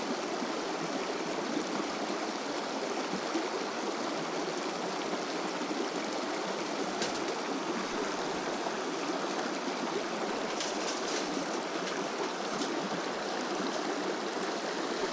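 A mountain river running steadily past the bank, a continuous even rush of flowing water. A few faint clicks sound over it about seven seconds in and again around eleven seconds in.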